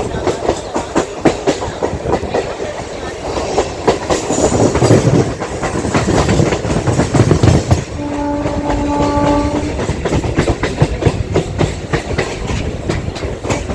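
Electric multiple unit (EMU) local train running on broad-gauge track, its wheels clattering in rapid clicks over the rail joints. About eight seconds in, one steady horn blast sounds for about a second and a half.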